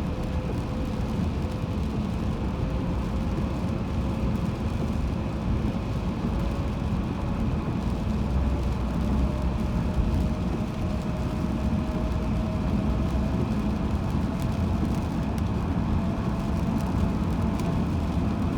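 Steady road noise of a car driving on a highway, with low tyre and engine rumble and a faint tone that slowly rises in pitch.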